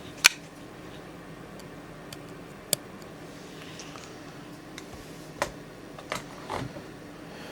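A handful of sharp, separate clicks and light knocks from handling a knife and sharpening gear, with a faint brushing sound between them, over a low steady room hum.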